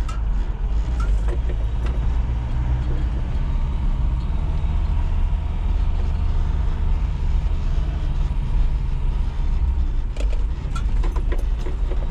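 Truck engine running while the truck drives, a steady low rumble, with a few light clicks near the end. The engine is running rough from a vacuum leak.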